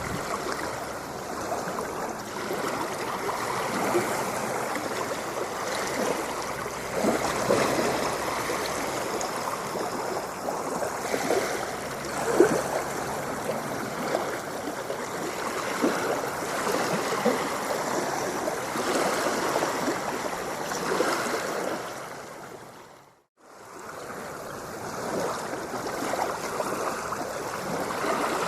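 Running water splashing and gurgling steadily, with many small splashes. About 23 seconds in, it fades out to silence for a moment and fades back in, like the seam of a looped recording.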